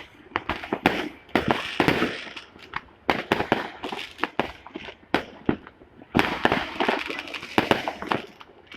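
Fireworks and firecrackers going off: an irregular run of sharp bangs and crackling, with denser volleys about a second and a half in and again about six seconds in.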